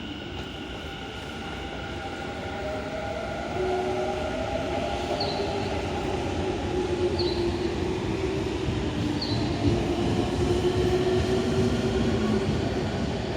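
Electric commuter train moving along the platform, its running noise growing louder with a motor whine of several tones that shift in pitch. Three short high chirps come about two seconds apart around the middle.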